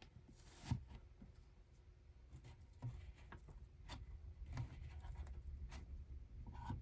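Quiet handling sounds: soft rubbing and scratching with scattered light taps, and one sharper knock just under a second in, over a steady low hum.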